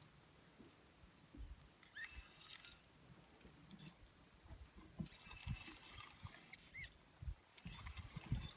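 Water splashing in three short bursts, with scattered low knocks in between.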